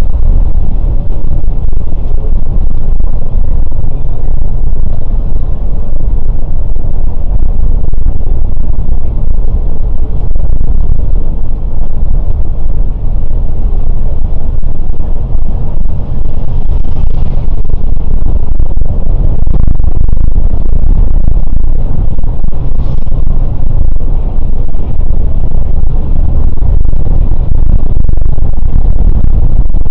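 Scania K410 coach under way: its diesel engine and road noise make a loud, steady low rumble.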